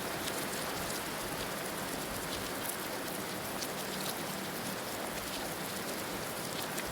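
Heavy rain falling steadily: an even hiss with scattered ticks of single drops striking.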